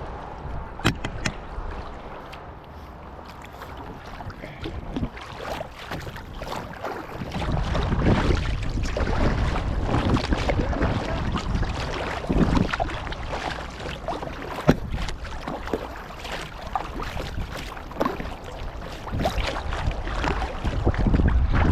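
Kayak paddles dipping and splashing in lake water, stroke after stroke, with water lapping at the hulls. From about seven seconds in, wind buffets the microphone with a low rumble.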